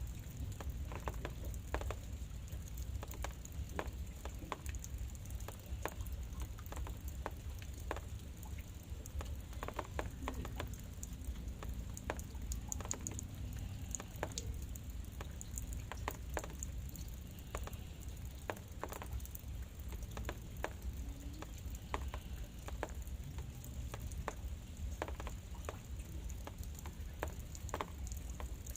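Light drizzle pattering: scattered, irregular drop ticks over a steady low rumble.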